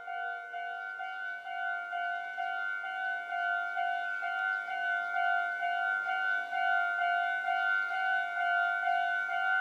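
Japanese railway level-crossing alarm ringing: an electronic two-tone bell repeating about twice a second, warning that a train is approaching.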